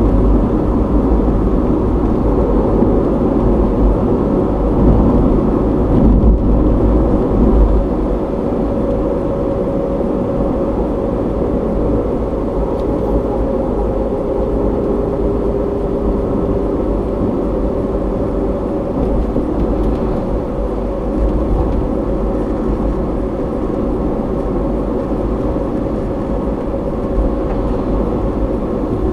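Car driving along a road, heard through a dashcam's microphone inside the car: steady, muffled rumble of tyres and engine.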